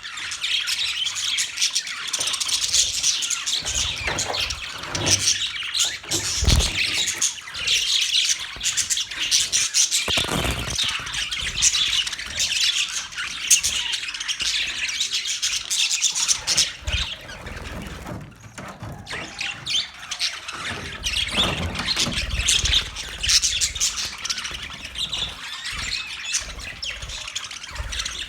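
A flock of budgerigars chattering, warbling and chirping continuously, with sharper squawks mixed in and a brief lull about two-thirds of the way through.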